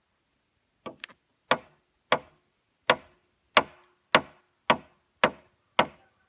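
A hand tool striking wood over and over in a steady rhythm: about ten sharp blows, roughly one every 0.6 seconds, beginning about a second in.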